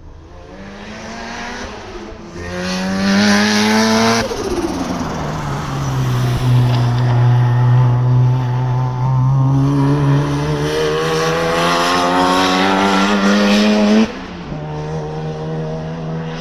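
Mazda RX-7 FC3S's twin-rotor 13B rotary engine running hard. Its note climbs, falls sharply about four seconds in, holds low and steady, climbs again, then cuts back abruptly near the end to a quieter, steady note.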